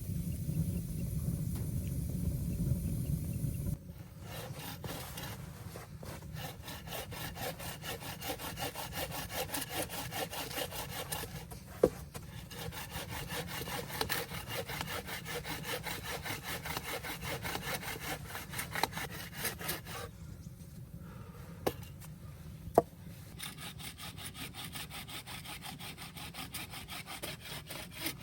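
Hand saw cutting through wood in steady back-and-forth strokes, in two long runs with a short pause about twenty seconds in. A low rumble comes before the sawing starts, and a few sharp knocks fall during it.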